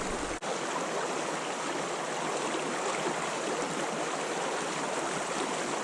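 Creek water running steadily through fast pocket water, an even rushing. About half a second in there is a brief dropout, after which the low rumble underneath stops.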